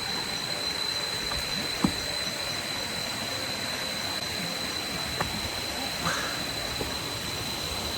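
Steady rushing of a nearby waterfall, with a thin steady high whine throughout and a couple of faint taps.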